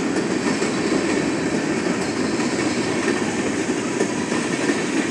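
Freight train of tank cars passing close by at a grade crossing: the steady rolling noise of steel wheels on the rails.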